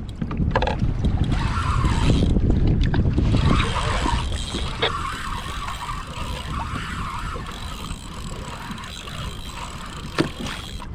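Wind rumbling on the microphone with water noise around a fishing kayak, loudest in the first few seconds, then settling to a steadier hiss. A couple of light knocks on the hull or gear.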